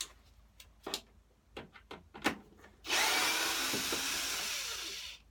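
A few light clicks and knocks of tools being handled, then a power drill-driver runs for about two seconds, backing a screw out of the mower deck.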